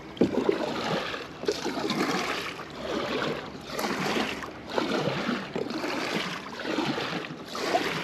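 Kayak paddle strokes in the water, a swish and drip that swells about once a second.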